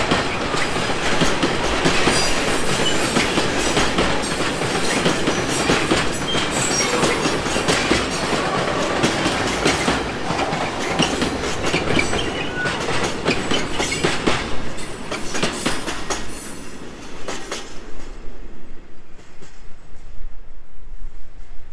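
Freight train of tank wagons rolling past, wheels clattering steadily over rail joints with a few brief high squeals. About three-quarters of the way in the last wagon passes and the clatter gives way to a fainter, receding rumble.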